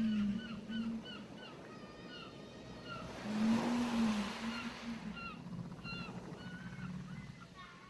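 Surf washing onto a beach, one wave swelling and breaking about halfway through, while birds call in short repeated chirps. Twice, at the start and again with the wave, a loud low tone rises and falls.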